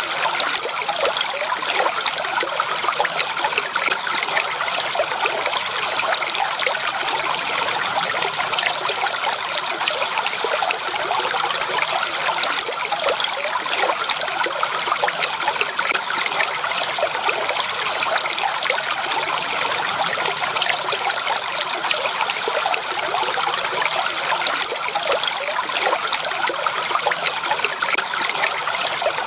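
Running water trickling and babbling steadily over stones, a small stream or brook with an even, bright splashing texture and no low rumble.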